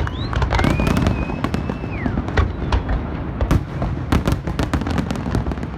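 Aerial fireworks bursting in quick succession: many sharp cracks and bangs over a continuous low rumble of booms. A whistle slides in pitch about half a second in.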